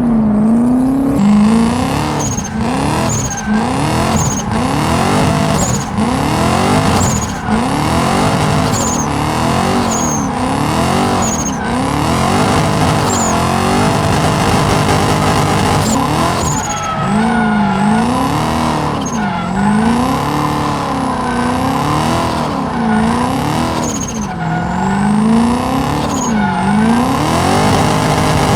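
Turbocharged BMW M62 V8 in a BMW E30, revved up and down over and over, roughly once a second, with tyres squealing as the car is drifted.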